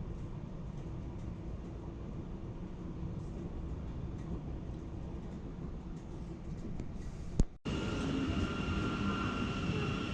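Train running with a steady low rumble. About seven and a half seconds in there is a sharp click, and the sound changes to a louder rumble with a steady high whine over it.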